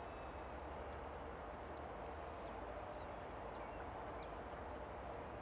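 A bird giving short, high chirps, repeated about every half second to a second, over a steady low outdoor rumble.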